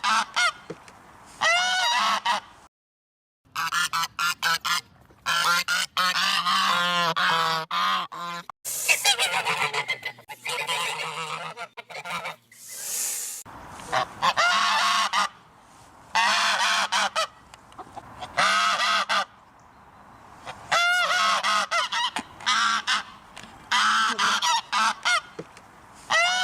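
A flock of geese honking over and over in loud bursts of calls that overlap one another, with a few short breaks between bursts.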